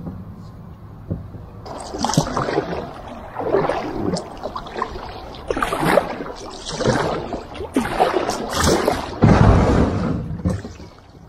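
Water sloshing and splashing against a kayak in irregular bursts, beginning about two seconds in.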